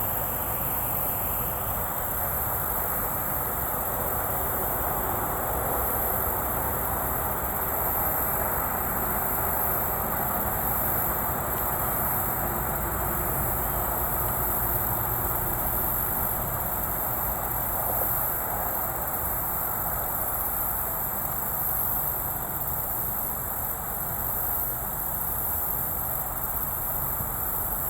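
Steady outdoor ambience: a continuous even hum of distant highway traffic with a constant high-pitched drone of insects over it.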